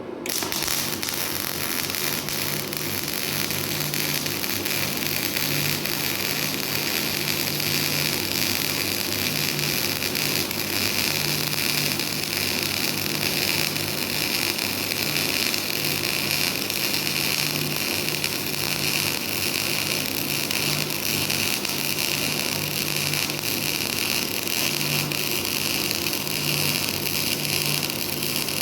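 Semi-automatic MIG welding arc struck abruptly, then crackling steadily without a break.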